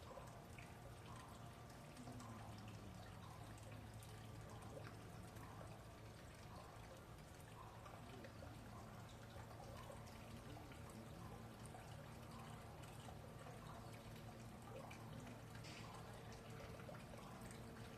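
Red panda eating bamboo: faint, irregular small crunches and snaps of chewing, over a steady trickle of water.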